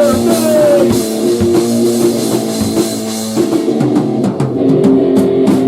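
A grunge/hardcore rock band playing: electric guitar over a drum kit, with a guitar note sliding down in pitch about half a second in.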